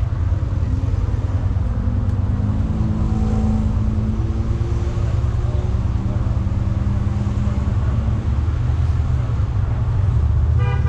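Steady low rumble of motor vehicles, with a brief high beep or toot right at the end.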